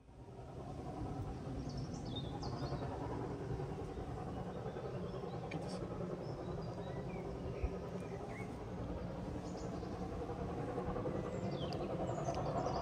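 Birds chirping over a low, steady rumble that slowly grows louder: a train approaching.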